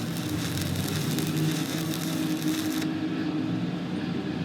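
A machine running steadily with a low, even drone; about three seconds in the high hiss drops away while the drone carries on.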